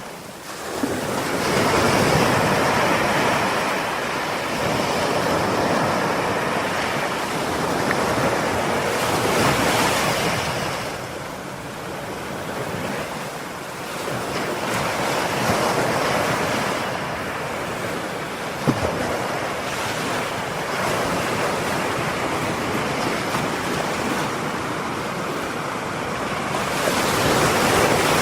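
Ocean surf: waves break and wash up the shore, swelling and easing every few seconds, with some wind. One brief sharp knock comes about two-thirds of the way through.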